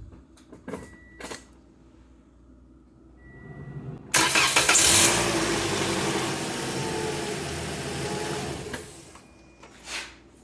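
Toyota Corolla's four-cylinder engine started after an oil change: a few clicks and two short beeps, then about four seconds in it catches suddenly, flares up and settles to a steady idle, and is switched off after about five seconds. It is run only until the oil pressure light goes out, which with synthetic oil is almost immediate.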